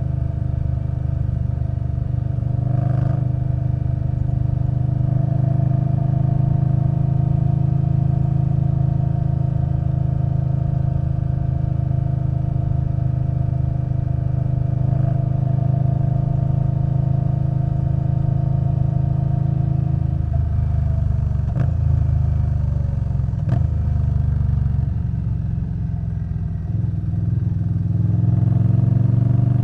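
Indian Scout Bobber Twenty's V-twin, breathing through a Vance & Hines Twin Slash exhaust, running at a steady pitch while riding. About two-thirds of the way through the note changes, with a couple of sharp clicks, and near the end the pitch rises as it accelerates.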